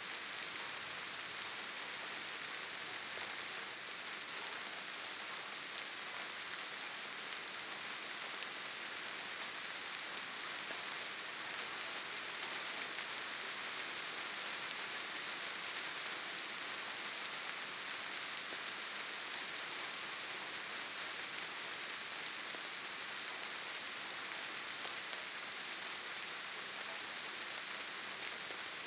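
Steady rain falling, an even, unbroken hiss of many drops with no single drop standing out.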